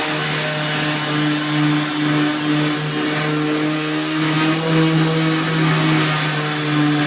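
Power sander running steadily on a tractor hood: a steady motor hum with a hiss of abrasive on the paint and metal over it.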